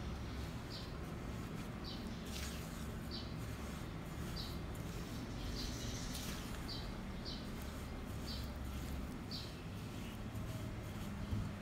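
A small bird chirping over and over, one short high chirp about every second, over a steady low hum. A few soft scrapes come from a silicone spatula mixing margarine and sugar in a glass bowl.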